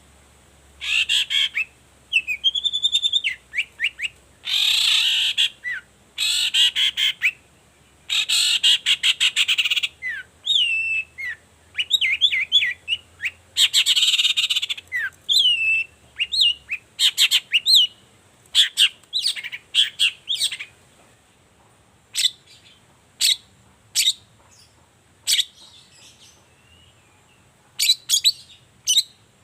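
Long-tailed shrike (cendet) singing: bursts of fast harsh chattering mixed with short whistled, slurred notes. From about two-thirds of the way in, these give way to single sharp notes about once a second.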